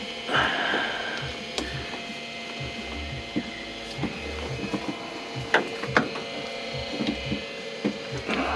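Ratchet clicking and small metal knocks from tools at work on a car engine, with a short burst of noise about half a second in and a denser run of clicks near the end.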